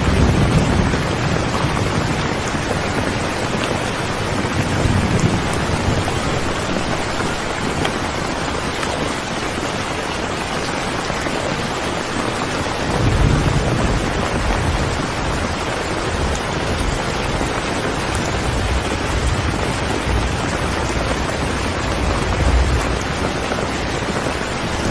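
Heavy rain falling steadily in a dense, even hiss, with deep low rumbles swelling up every several seconds.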